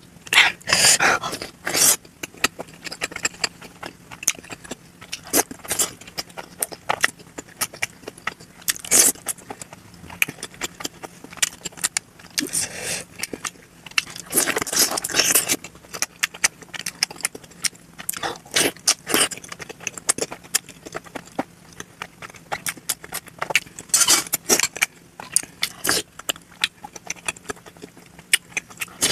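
Close-miked eating of momo dumplings, sped up to double speed: quick wet chewing and mouth clicks, with a few longer stretches of munching around the middle.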